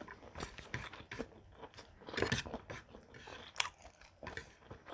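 Close-up mukbang chewing: a mouthful of rice, pork tocino and green mango salad being bitten and chewed, with irregular wet crunches and clicks, the loudest a little past two seconds in.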